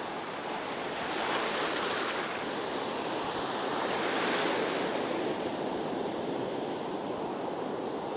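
Ocean surf breaking and washing on a sandy beach, with a steady wash that swells gently twice, and some wind on the microphone.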